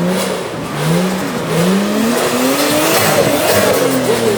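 A car engine revving hard as it pulls away, its pitch climbing several times in a row over a hiss of noise.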